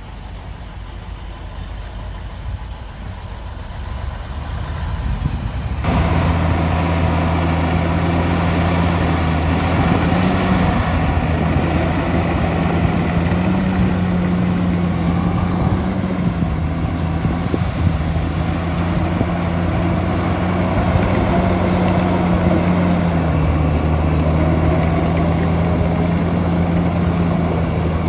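Heavy diesel engine of earthmoving machinery running. A low rumble builds over the first few seconds, and about six seconds in it changes suddenly to a louder, steady engine drone whose pitch rises and falls slightly.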